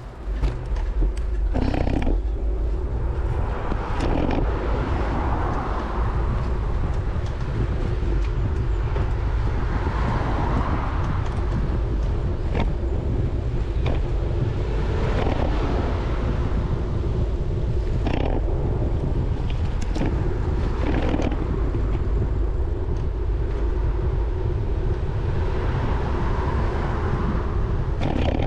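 Wind rumbling over the microphone of a camera riding on a moving bicycle, with road traffic swelling and fading past. Several brief knocks are scattered through it.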